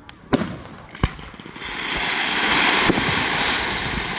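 Fireworks display: two sharp bangs about a second apart, then a long steady hiss that swells and slowly fades.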